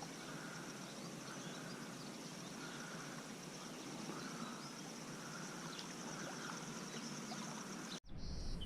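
Quiet outdoor riverside ambience: a steady high-pitched hum with a faint call repeating about once a second, which cuts off suddenly near the end.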